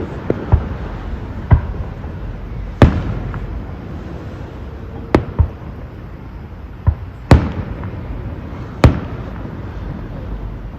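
Fireworks going off: about ten sharp bangs at irregular intervals, some in quick pairs, over a steady low rumble.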